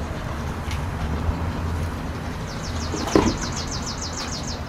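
Steady low outdoor rumble like distant traffic, with a single knock about three seconds in. A bird's fast, high trill of about fifteen even notes starts about halfway through.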